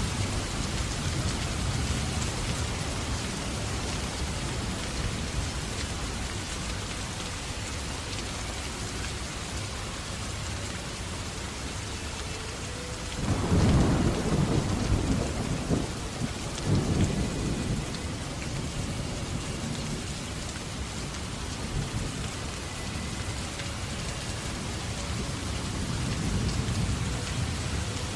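Steady rain falling, with a low rumble of thunder about halfway through that lasts a few seconds before fading back into the rain.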